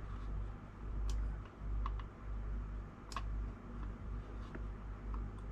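A few light, scattered clicks and taps, about one every second or so, over a steady low hum.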